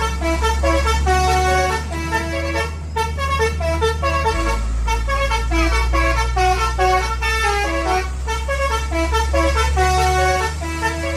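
Basuri telolet bus horn playing a fast tune of short notes that step up and down in pitch, over a steady low hum that drops in pitch about four seconds in.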